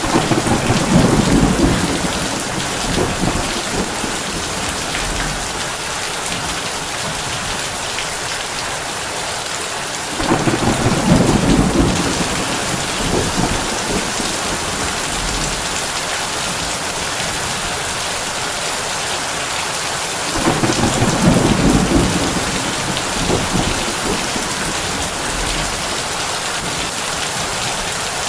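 Heavy rain drumming steadily on a tin roof, with three rumbles of thunder about ten seconds apart: one right at the start, one about ten seconds in and one about twenty seconds in, each swelling for a couple of seconds and then fading.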